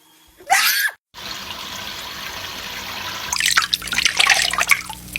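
A short loud sound about half a second in, then water running steadily from a tap. From about three seconds in, a small parrot splashes in the stream, sending up sharp spattering sounds over the running water.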